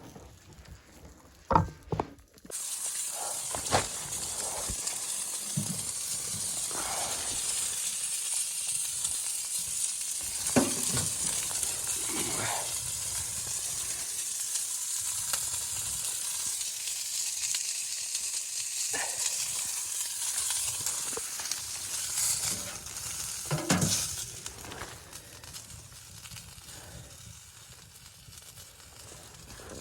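Food sizzling in a hot pan, starting suddenly a couple of seconds in and dying down near the end, with a few scattered clicks and knocks.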